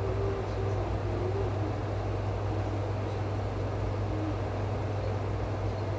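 Steady low mechanical hum under a constant wash of noise, with a faint wavering tone near the start and again about four seconds in.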